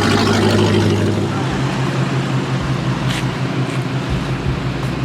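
Car engine idling with a steady low hum; its note steps up slightly about a second and a half in.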